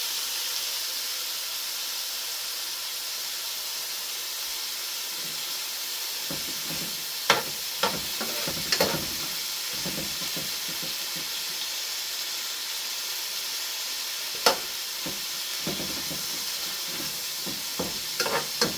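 Food frying in a pot, a steady sizzle, with sharp clicks and knocks of a utensil against the pot: a cluster about seven to nine seconds in, one at about fourteen seconds, and several near the end.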